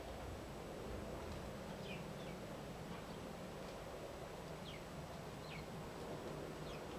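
Wild birds giving short, high chirps that slide downward, two pairs of them about two and five seconds in, over a steady background hiss and hum.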